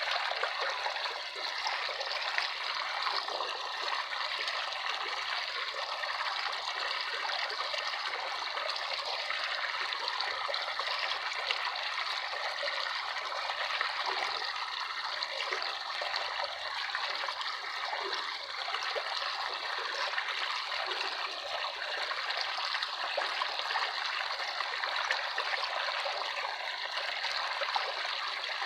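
Water running and trickling steadily, as in a small stream.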